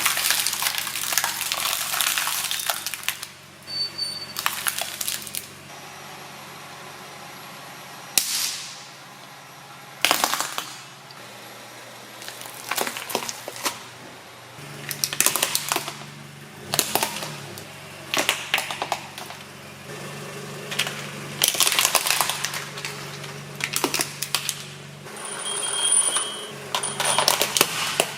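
Repeated crunching and crackling as a car's tyre rolls over and crushes objects, about a dozen bursts of a second or two each, over the steady hum of the car's engine.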